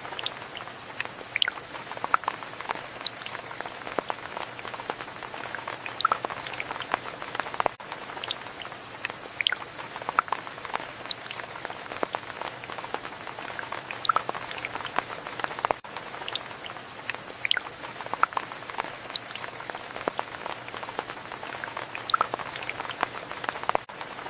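Steady rain with many individual drops pattering and dripping at irregular moments over a soft hiss.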